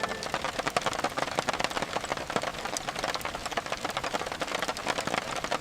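Rain falling, with a dense, irregular spatter of individual drop clicks over a steady hiss.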